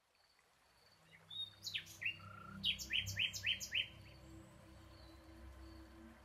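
Birds chirping, fading in from silence: scattered short high calls, then a quick run of about five short falling chirps around the middle, over a faint steady high note.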